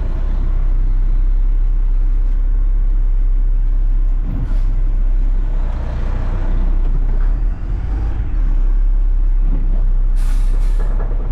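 Front-load garbage truck's diesel engine running steadily with a deep rumble, and a short burst of air hiss near the end.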